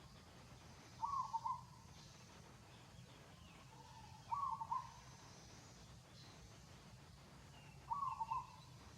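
A bird calling a short phrase of quick notes three times, about every three and a half seconds, over a faint low steady hum.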